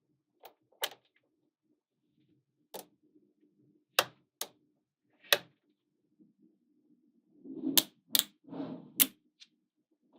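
Small magnetic balls snapping together with sharp clicks, about ten irregularly spaced snaps, with a brief rustle of balls shifting between the clicks near the end.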